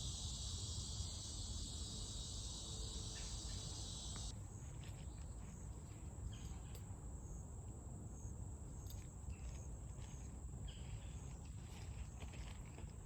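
Insects shrilling in a dense, high chorus that cuts off suddenly about four seconds in. After that a thinner, steady high insect note carries on, with scattered short crackles.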